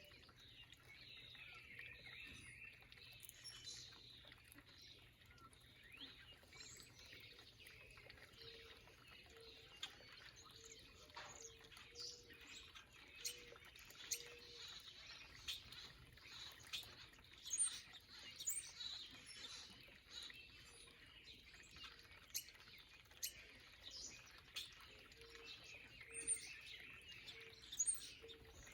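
Backyard songbirds chirping and calling faintly in a busy mix of short, high notes. Runs of a low, short repeated note come in about a third of the way in and again near the end.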